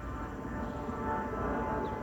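A distant engine droning with a steady pitched hum that swells in loudness, over a low rumble.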